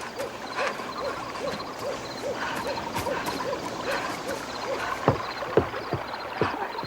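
Night-woods ambience: a steady run of soft, low hooting notes, a little over two a second, with faint high chirping of insects above it. A few short knocks or rustles come near the end.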